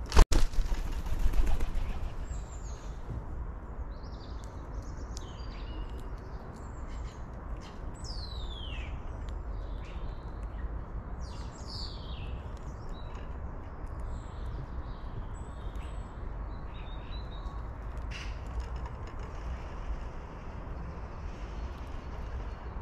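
Several small birds chirping and calling, a few calls sliding down in pitch, over a steady low rumble. At the very start there is a sharp knock, followed by a second or two of louder rustling noise.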